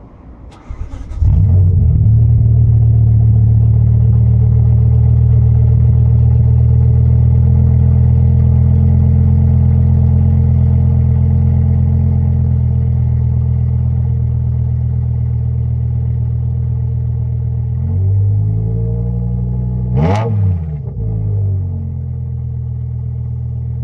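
BMW E60 M5's V10 engine through an Eisenmann exhaust, starting up about a second in and settling into a loud, steady idle. Near the end it is revved three times in quick succession, the middle blip the sharpest, then drops back to a quieter idle.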